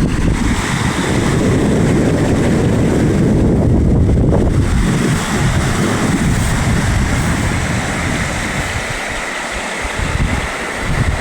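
Wind buffeting the microphone in a rainstorm, over a loud, steady rushing noise that swells and eases over several seconds.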